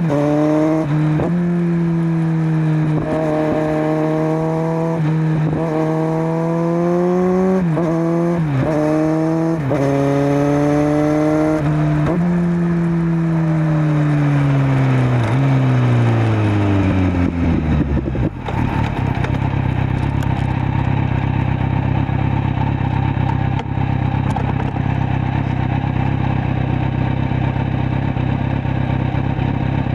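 Kawasaki Z900 inline-four with a LeoVince LV10 slip-on exhaust under way, its note dipping and climbing several times as the revs change, then falling smoothly over about six seconds as the throttle is closed and settling into a steady idle for the rest.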